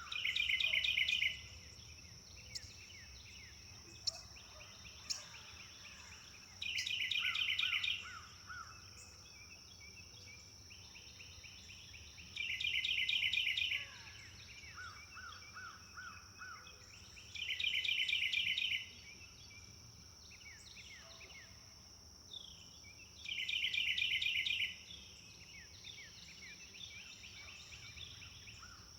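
A songbird repeating the same short song five times, about every five to six seconds: a few lower notes and then a quick run of high trilled notes. A few sharp single chirps fall between the first songs, over a steady high buzz that runs throughout.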